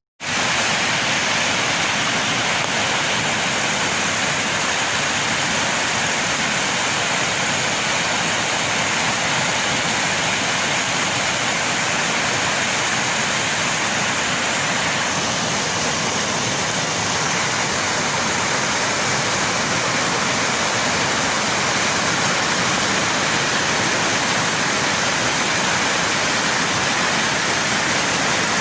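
Steady rushing of fast-flowing flash-flood water, runoff swollen by heavy storm rain.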